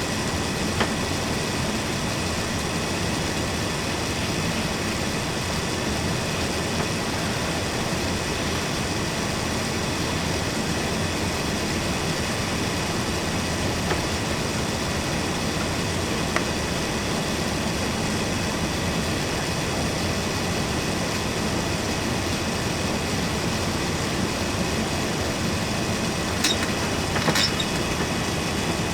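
Steady cabin noise of an Airbus A380 in flight on its way in to land: an even drone of engines and airflow with faint steady whining tones. Two brief clicks sound near the end.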